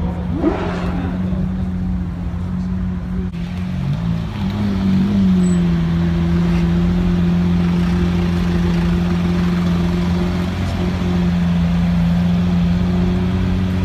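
Lamborghini Aventador's V12 engine running at low speed as the car creeps through a turn. Its note rises briefly about five seconds in, then holds at a steady, slightly louder pitch.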